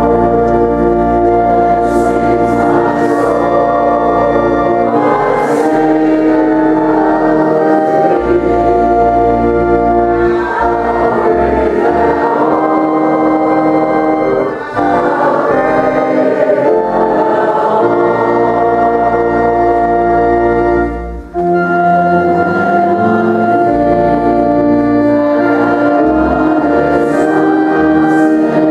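Organ-accompanied choral singing of a church hymn, sustained chords with a brief break between phrases about three-quarters of the way through.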